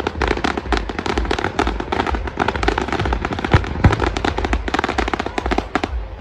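Fireworks display: a dense, rapid crackling of many small bursts, with two louder bangs a little over halfway through.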